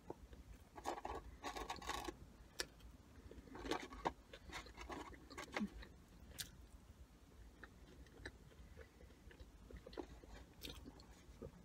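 Faint chewing and mouth sounds of someone eating a McDonald's sandwich, with scattered small clicks and soft rustling from the paper food box, busiest in the first half.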